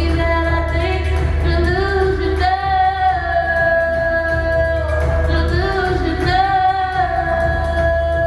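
A singer holding long sustained notes over an electronic pop backing track with a steady deep bass, in a large hall.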